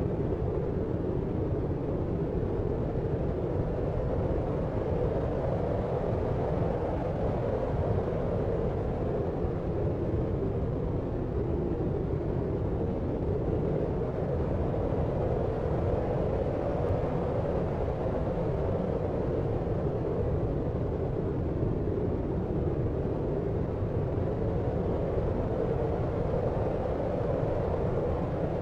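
Steady deep sleep noise: an even, low, rumbling hiss, strongest in the low and lower-middle range, with no individual sounds and no change.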